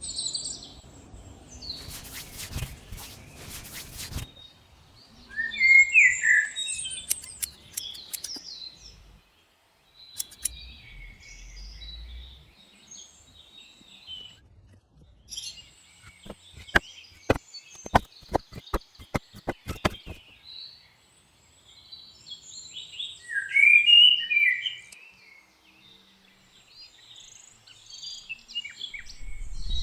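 Birds chirping and calling, with two loud bursts of song. A two-second rush of noise comes near the start, and two runs of sharp clicks come later.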